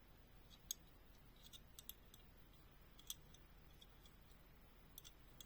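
Near silence with a few faint, sharp clicks and taps scattered through it, from a small diecast model truck being handled.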